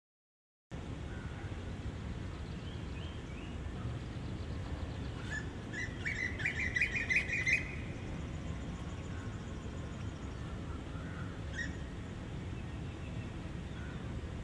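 A bird chirping in a quick run of calls about five seconds in, with a single chirp later, over a steady low rumble of location ambience.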